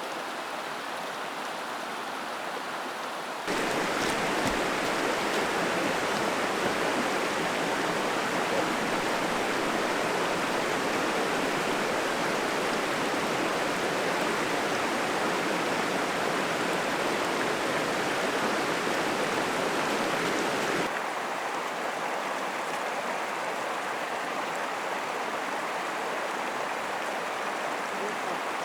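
A mountain stream rushing steadily. Its loudness steps up suddenly about three and a half seconds in and drops back just as suddenly at about twenty-one seconds.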